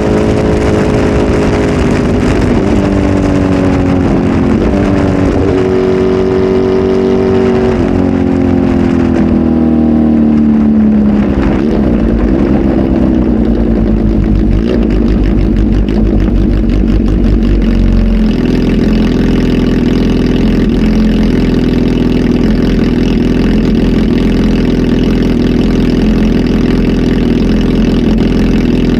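Kawasaki Z H2 SE's supercharged inline-four running through a full aftermarket exhaust with a flash tune. Its revs slowly fall over the first ten seconds or so, waver, and then about 18 seconds in the engine settles into a steady idle.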